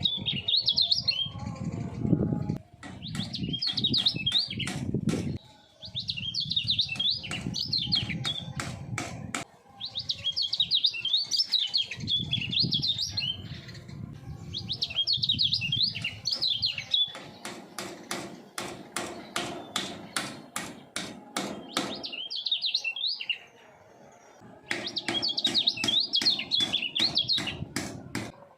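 Kecial kuning (lemon-bellied white-eye) singing: rapid high twittering phrases of a few seconds each, repeated with short pauses, mixed with quick sharp ticks, over a low background rumble.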